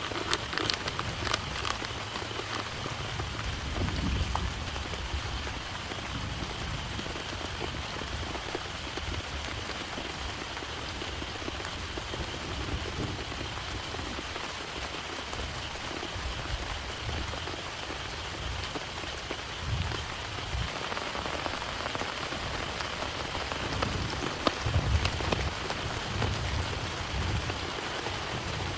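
Heavy rain falling steadily, with individual drops ticking sharply and a few louder low thuds about four seconds in and again near the end.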